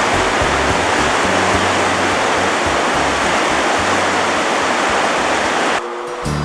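Loud, steady rushing of river water over background music; the water sound cuts off suddenly near the end, leaving only the music.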